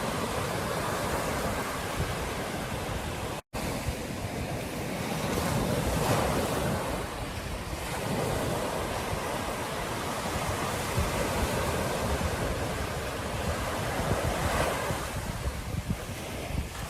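Ocean surf breaking on a beach, a continuous wash of waves that swells and eases, with wind rumbling on the microphone. The sound drops out completely for an instant about three and a half seconds in.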